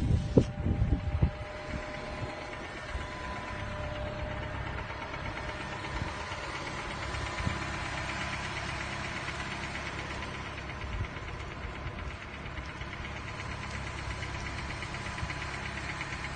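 A vehicle engine idling with a steady low rumble. A few loud bumps sound in the first second or so.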